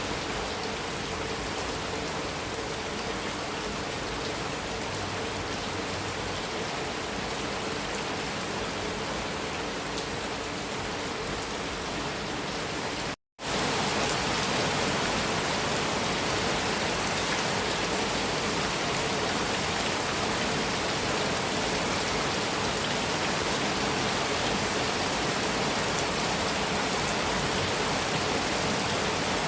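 Heavy rain drumming steadily on a metal roof. About 13 seconds in the sound drops out for a split second, and it comes back slightly louder.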